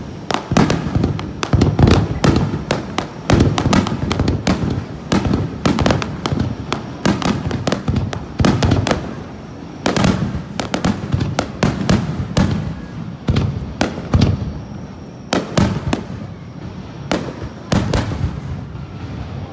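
Fireworks display going off in a rapid barrage: sharp bangs several a second, overlapping with continuous low rumbling booms from the shell bursts.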